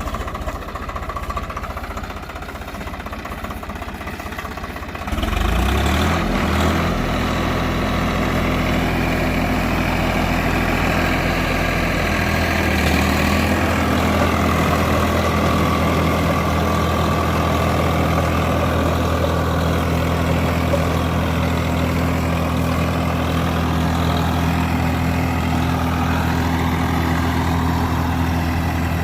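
Swaraj 744 FE tractor's three-cylinder diesel engine running. About five seconds in it revs up and gets louder, then holds a steady, even speed.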